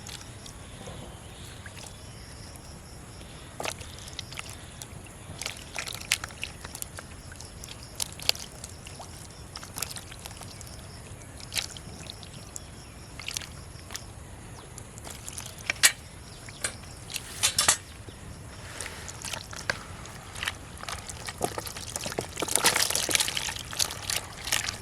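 Pond water splashing and sloshing in short, irregular bursts, growing busier and louder near the end.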